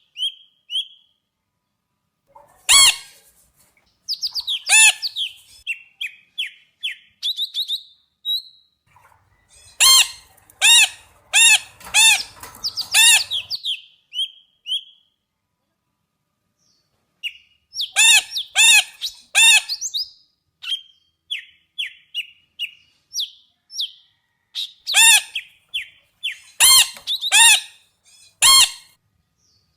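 A parrot squawking in runs of loud, harsh calls, several in quick succession, with short high chirps between the runs and a pause of a few seconds midway.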